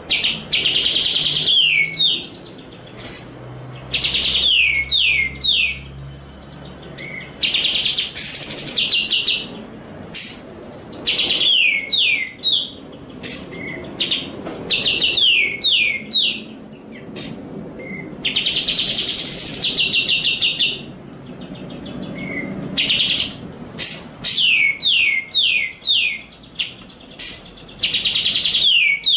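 Songbird song from a masteran training recording: repeated loud phrases of quick, high, downward-sweeping notes, each about a second long, with short pauses between them.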